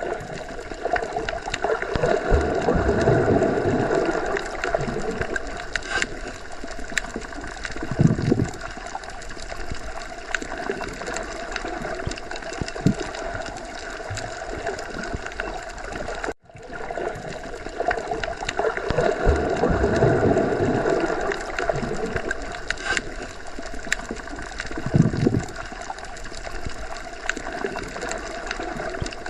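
Underwater sea ambience: continuous muffled bubbling and gurgling water that swells and fades, with a few sharper bubble pops. It cuts out for a moment about halfway through and the same stretch starts over.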